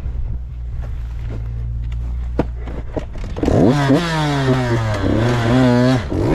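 Motocross bike engine: a low steady rumble, then from about three and a half seconds in it revs hard, the pitch climbing and dropping several times as the throttle is worked.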